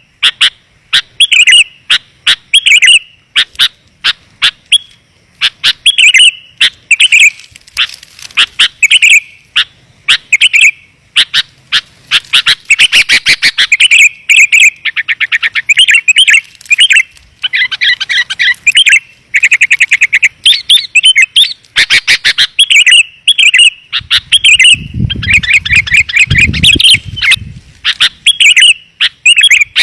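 Sooty-headed bulbuls calling in a lure recording: loud, dense bubbly chirps, with fast chattering trills in between. A low rumble sounds briefly about 25 seconds in.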